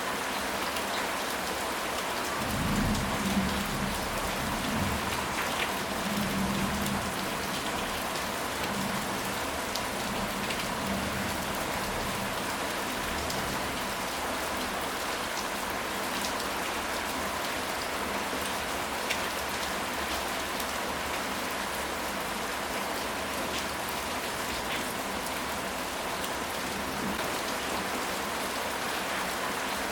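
Steady rain falling on a surface, an even hiss of drops throughout. A low rumble of thunder comes in about two and a half seconds in and dies away by about seven seconds.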